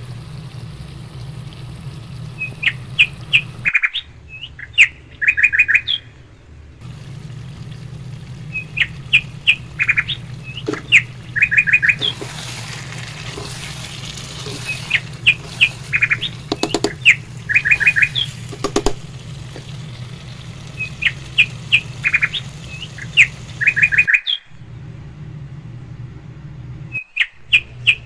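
A small bird chirping in short quick runs of notes, repeated every few seconds, over a steady low hum. A brief hiss comes about halfway through, and a few sharp knocks follow.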